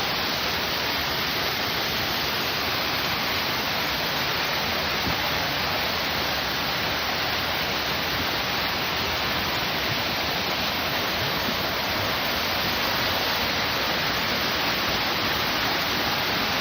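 Waterfall rushing, a loud steady hiss of falling water.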